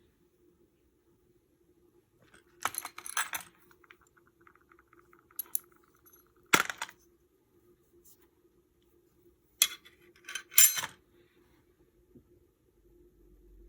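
Small metal parts and tools clinking and clattering as they are handled and set down, in a few separate bursts, one striking with a short ring. A faint buzz runs for about two seconds in the middle.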